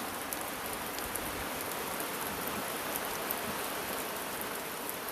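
Steady rain falling, with a few scattered drip ticks.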